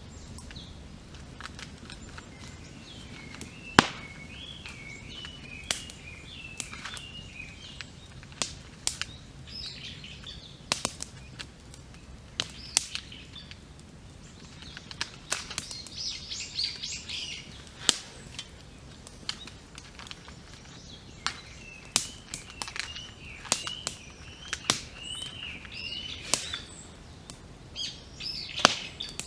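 Wood campfire crackling, with sharp irregular pops, the loudest about four seconds in. Several small birds sing warbling, wavering phrases over it in stretches.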